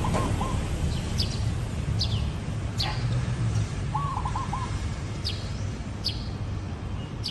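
Zebra dove cooing: a short run of rippling, staccato coo notes right at the start and again about four seconds in. Other small birds give brief, high falling chirps throughout over a low background rumble.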